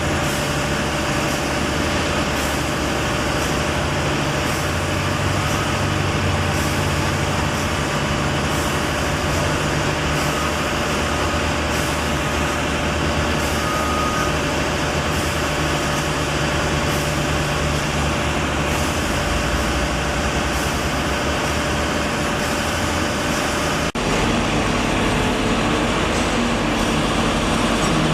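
A heavy engine running steadily, like a truck or diesel construction machine idling, with a steady mid-pitched whine over it. The sound changes abruptly near the end.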